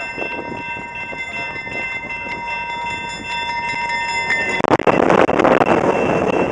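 Canadian Pacific freight train approaching with its horn sounding a steady chord, which stops about four seconds in. The diesel locomotives then pass close by with a sudden loud rush of engine and wheel noise.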